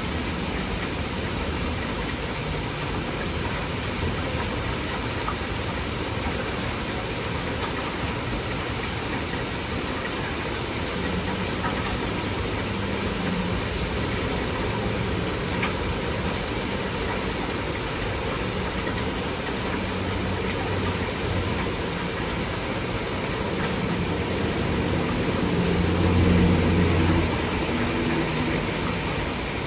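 Heavy torrential rain falling steadily, a dense even hiss. A low rumble comes and goes underneath, swelling louder briefly near the end.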